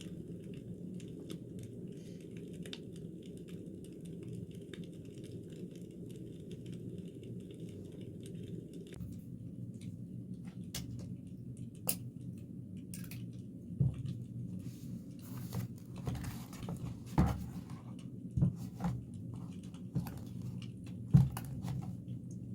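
Steady low hum with light taps and clicks of small objects being handled, starting about halfway through, and a few louder knocks near the end.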